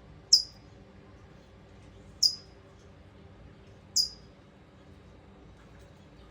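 Adult California towhee giving sharp alarm chips near its nest, three loud single notes about two seconds apart, each dropping quickly in pitch: a worried parent calling at an intruder by the nestlings.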